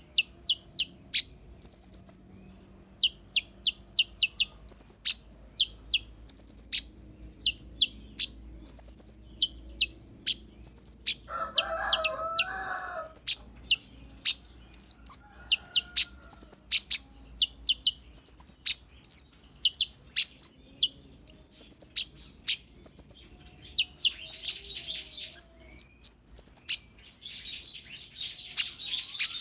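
Kolibri ninja (konin) sunbird singing a fast string of sharp, high chirps, its song laced with mimicked white-eye (pleci) phrases. A lower warbling phrase comes about twelve seconds in, and dense rapid twittering comes near the end.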